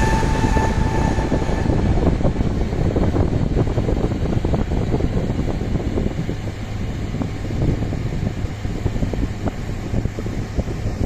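A passenger boat's engine running steadily, a dense low rumble, with wind buffeting the microphone.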